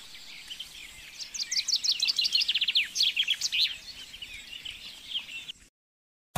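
Songbird calling in rapid runs of high, downward-sweeping chirps, loudest from about a second in to the middle, then fainter, breaking off into dead silence just before the end.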